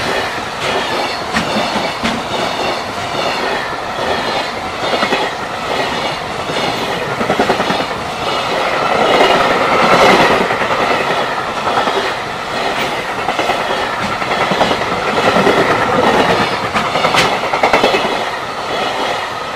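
Loud freight train of container flatcars rolling past, the wheels clattering over the rail joints in a steady, rapid clickety-clack.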